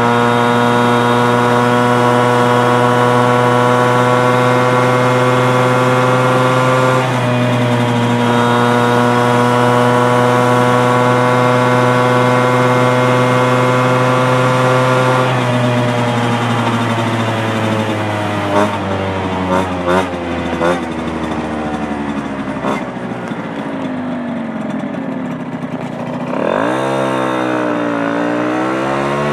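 Piaggio Ciao moped's 65 cc two-stroke engine with a Giannelli City Power exhaust, held at steady high revs with a brief dip about seven seconds in. The revs then wind down slowly with a few short blips, and the engine revs up sharply near the end.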